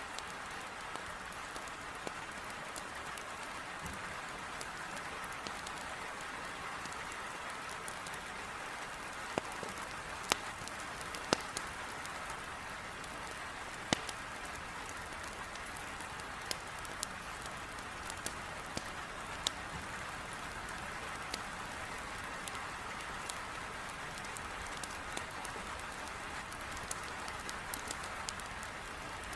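Heavy rain beating steadily on a window, with a wood fire in a fireplace crackling; sharp pops come every few seconds, a cluster of louder ones around ten to fourteen seconds in.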